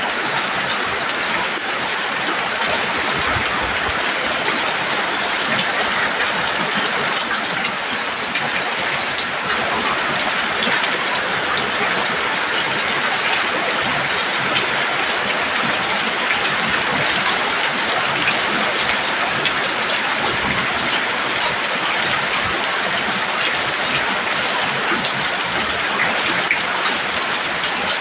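Heavy rain pouring steadily on a roof: a dense, even hiss with many small drop impacts ticking through it.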